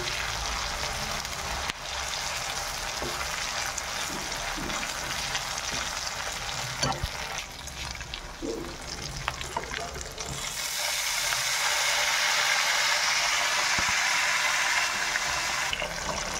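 Pork pieces sizzling in hot oil in a kadai, with a steel spoon stirring and now and then clicking against the pan. The sizzle grows louder and brighter for several seconds past the middle.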